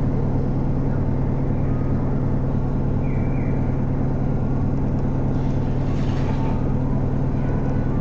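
Isuzu Erga city bus's four-cylinder diesel engine running at a steady speed, heard from inside the passenger cabin as a constant low hum. A brief hiss sounds about six seconds in.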